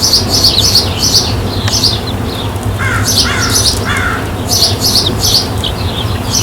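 Birds chirping in quick runs of short, high calls, with a few lower falling calls about three to four seconds in, over a steady low hum.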